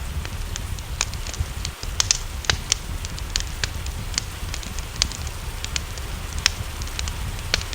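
Wood fire crackling in a fireplace, with irregular sharp pops several times a second over a steady low rumble and a hiss of rain.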